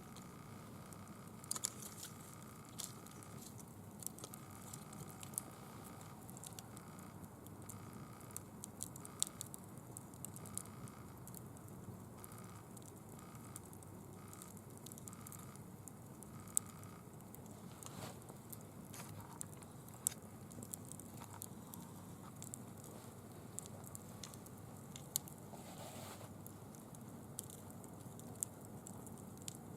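Bonfire burning fallen leaves, crackling with scattered sharp pops over a low steady hiss.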